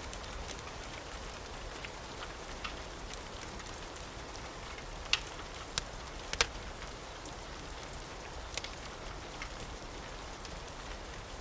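Steady rain hiss mixed with a crackling wood fire, a few sharp pops standing out about halfway through. No thunder.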